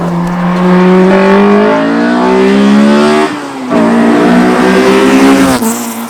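Honda Civic Type R's K20 four-cylinder engine, with an aftermarket exhaust, accelerating hard under full throttle. Its note climbs for about three seconds, dips briefly at an upshift, climbs again, then drops off near the end as the driver lifts.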